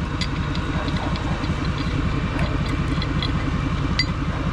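Vehicle engine idling steadily, with a few faint clicks over it.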